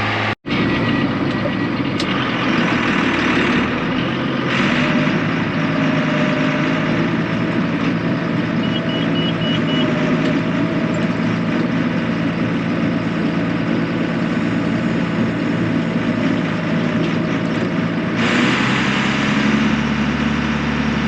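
A vehicle engine running steadily at an even speed, with its engine note shifting lower about eighteen seconds in.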